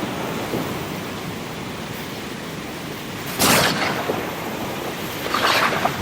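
Steady rushing noise of sea surf and rain, broken by two sharp cracks of thunder: a loud one about three and a half seconds in and a second one near the end.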